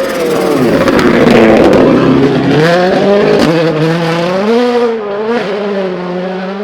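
2017 World Rally Car's 1.6-litre turbocharged four-cylinder engine at full throttle as the car passes close. Loudest about a second in, then accelerating away with the engine note climbing through gear changes and fading near the end.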